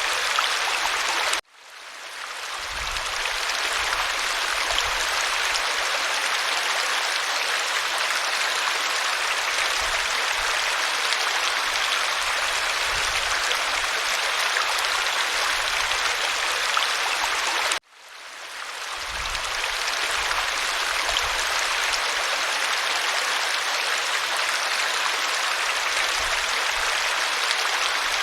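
Waterfall: a steady rush of falling water that cuts out abruptly twice, about a second and a half in and again about eighteen seconds in, fading back up over a couple of seconds each time, the seams of a looped recording.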